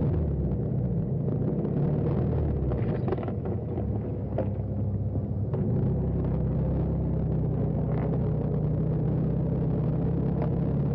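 Car engine running steadily with a low, even rumble; its pitch settles lower about six seconds in, with a few faint clicks over it.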